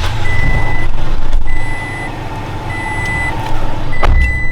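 A car's warning chime beeping, one high tone roughly every one and a half seconds, over the low steady running of the engine just after it has been started. A thump about four seconds in.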